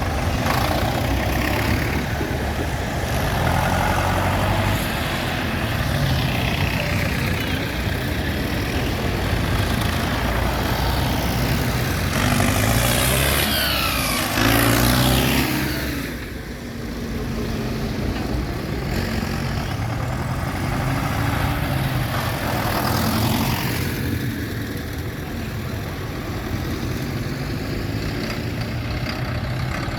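Engines of a procession of tractors and other vehicles running as they drive past. One passes close, loudest from about twelve to sixteen seconds in, its pitch sweeping as it goes by.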